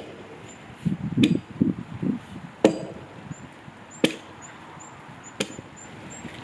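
Axe strokes chopping into the dead wood of a tree, four sharp blows about a second and a half apart.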